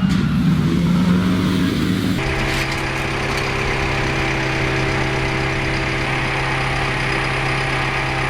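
Vehicle engine running, its pitch wavering for the first two seconds; after an abrupt cut a steady low engine drone, as at idle, holds for the rest.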